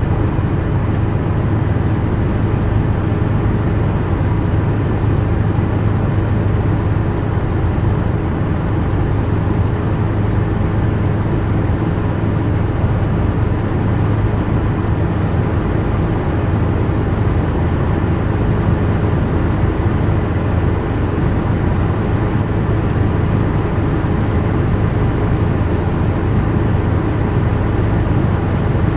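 Helicopter engine and rotor drone heard from inside the cabin: a steady, unbroken hum, strongest in its deep low tone.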